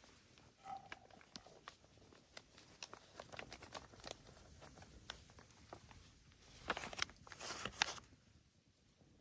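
Close-up handling noises: a scatter of light clicks and taps, then a louder stretch of scraping or rustling about seven seconds in.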